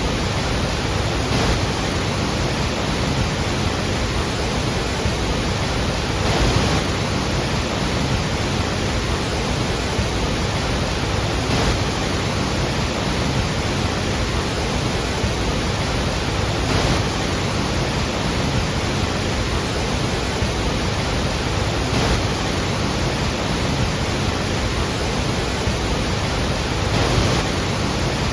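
Iguazu Falls' cascades pouring: a steady, dense rush of falling water, with slight swells about every five seconds.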